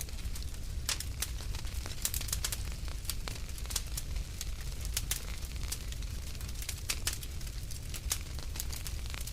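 Wood fire crackling in a fireplace: irregular sharp crackles and pops over a low steady rumble.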